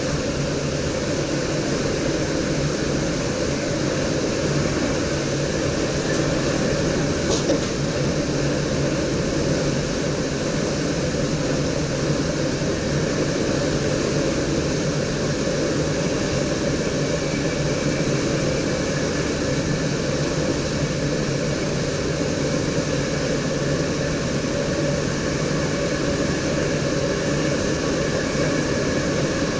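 Steady running noise in the driver's cab of an NS DDZ double-deck electric train travelling along the line: a continuous rumble of wheels on rail and cab airflow. A faint high whine joins about halfway through.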